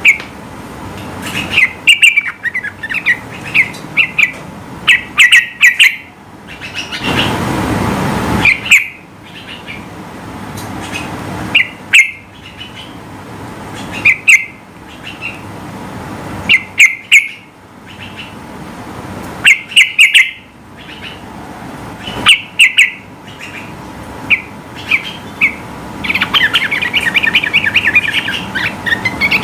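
Yellow-vented bulbul singing in short bursts of quick chattering notes that repeat every couple of seconds, with a longer, denser run of chatter near the end. A brief rushing noise comes about seven seconds in.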